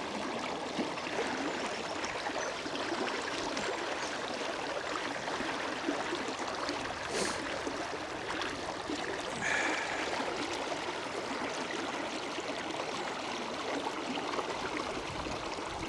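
River water running steadily over a fast, shallow stretch, an even rushing flow.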